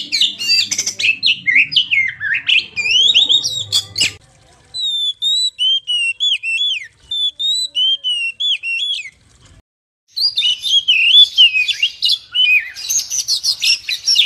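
Oriental magpie-robin (kacer) song from spliced recordings. It opens with fast, busy chirping and warbling that cuts off about four seconds in. A run of clear, separate whistled notes follows, then after a brief break the busy song starts again.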